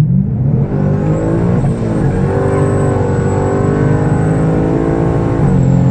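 Twin-turbocharged Ford Coyote 5.0 V8 at full throttle, pulling hard from a 60 mph roll-on, with a high whine coming in about a second in as the turbos build boost. About five and a half seconds in the engine note dips briefly and picks up again, a gear change.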